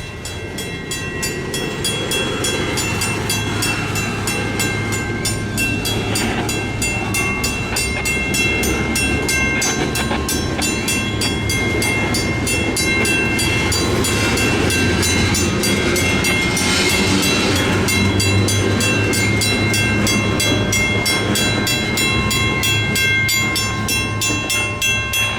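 Diesel freight locomotives' engines running as they pull away, with the locomotive bell ringing in steady, even strokes.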